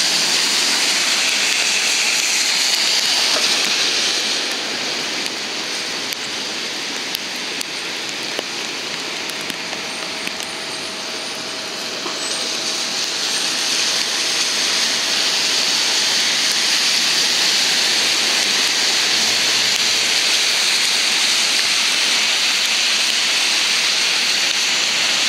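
Heavy rain pouring down in a steady hiss, easing a little for several seconds near the middle before building back up.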